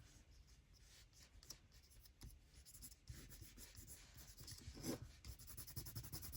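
Faint scratchy rubbing on paper as gold colour is worked onto the card, with a few light ticks.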